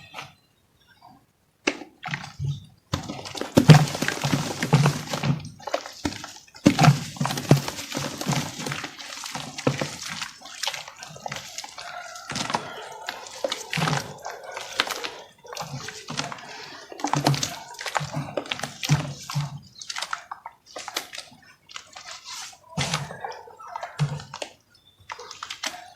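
Dry crumbly chunks dipped in water and crushed by hand, giving dense irregular crackling with soft wet squelches and splashes. A few faint clicks come first; the crumbling sets in about three seconds in and thins out near the end.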